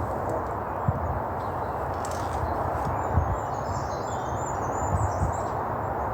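Small birds chirping in woodland over a steady low rushing background, with a few brief low thumps.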